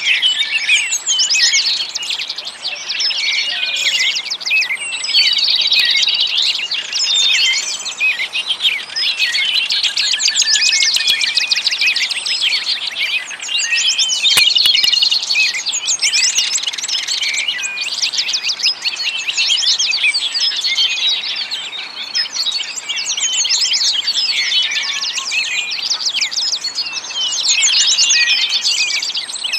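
Many small birds chirping and singing at once: a dense, overlapping chorus of rapid high chirps and trills.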